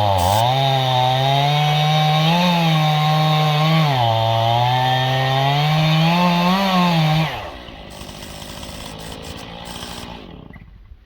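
Two-stroke chainsaw cutting through dead ash on a freshly sharpened chain, its engine pitch sagging under load and picking back up several times. About seven seconds in it is let off the throttle and drops to a much quieter idle, which fades near the end.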